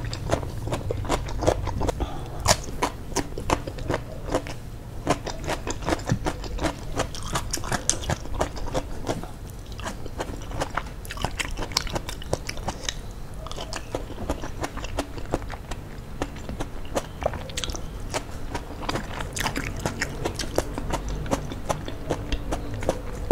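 Close-miked eating: biting and chewing fresh cucumber and tomato slices, with many wet mouth clicks and small crunches.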